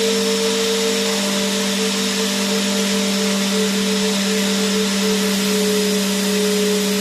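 Vacuum cleaner running steadily: a constant motor hum with a whining tone over an even rush of air.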